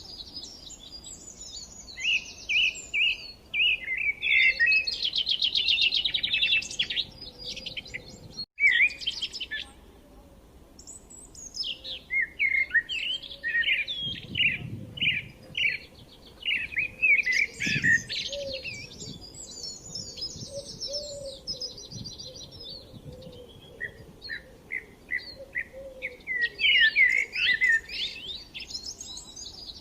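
Songbirds chirping and singing: quick repeated chirps and fast trills overlapping, with a brief dropout about eight and a half seconds in.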